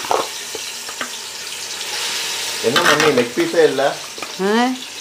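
Marinated chicken pieces sizzling as they go into hot ghee and oil in an aluminium pot, with a couple of light knocks in the first second. A voice is heard briefly in the second half.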